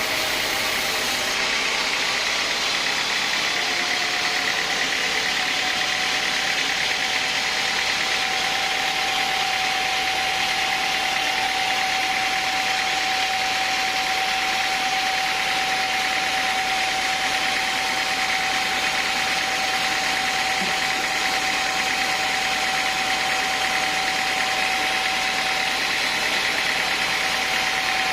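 Sawmill saw running steadily with a constant hiss, a steady whine setting in about four seconds in and holding.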